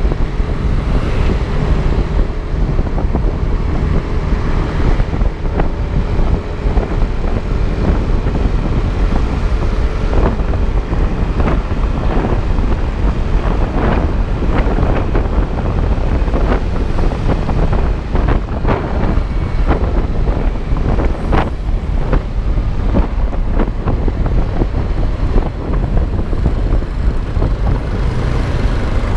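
Wind buffeting an action camera's microphone while riding a Yamaha Aerox V2 scooter, with its engine and road noise running underneath. Short crackles come and go through the middle stretch.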